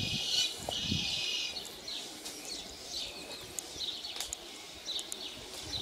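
Small birds chirping and singing, with short high calls repeated throughout.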